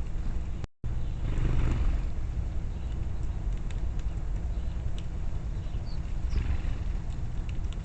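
Outdoor backyard ambience: a steady low rumble, with two brief high bird chirps about five and six seconds in. The sound cuts out completely for a moment just before one second in.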